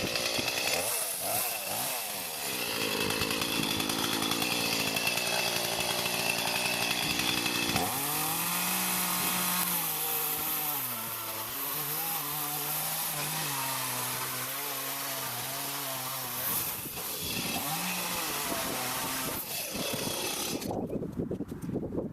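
Gas chainsaw with a 14-inch bar running at full throttle, cutting into a large stump. From about a third of the way in, the engine pitch sags and wavers as the chain bogs in the wood. Near the end the saw lets off.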